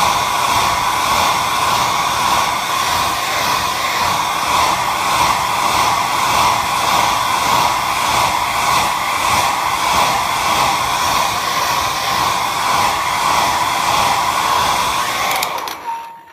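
Handheld hair dryer blowing steadily, a rushing airflow with a motor whine, that cuts off near the end.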